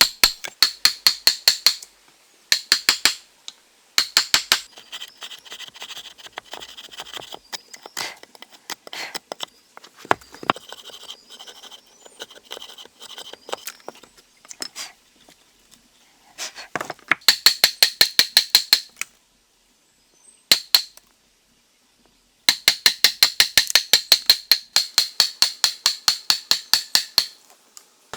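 Bursts of rapid, evenly spaced sharp taps, several a second, as of a hand tool striking something hard, with quieter irregular knocking and scraping between the bursts.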